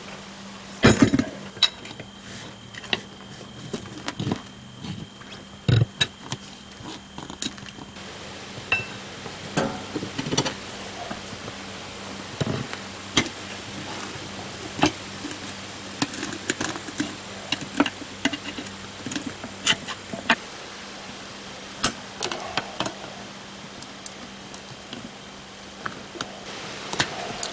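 Irregular metal clinks and knocks of hand tools, screwdrivers and pliers, working a wheel off its axle by prying off the retaining ring that holds the tire on.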